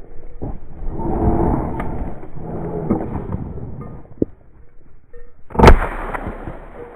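A single loud shotgun shot about five and a half seconds in, sharp-edged with a brief ringing tail. Before it, rustling and crunching from walking through cover.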